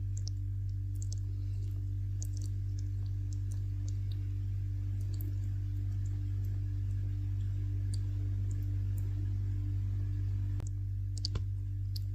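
A bat chewing a persimmon makes small, scattered, wet clicks, with a couple of sharper clicks near the end, over a steady low hum.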